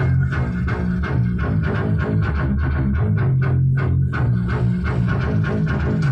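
Recorded music with bass guitar, guitar and drums played loudly through a Kevler PA amplifier and speakers, the bass notes strong and steady under a regular beat.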